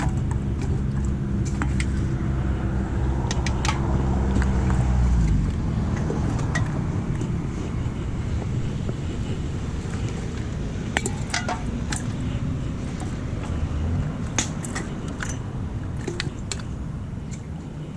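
A motor vehicle's engine running close by, a steady low hum that stops abruptly about five seconds in. After that, several light, sharp clicks in a row.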